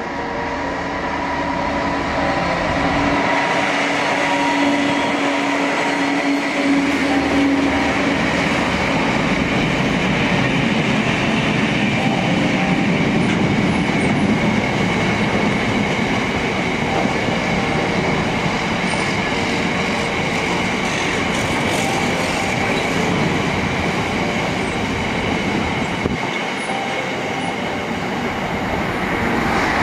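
Class 66 diesel freight locomotive passing with its engine running, followed by a long rake of loaded box wagons rolling by with a steady rumble and clatter of wheels on rail. A second train begins to pass right at the end.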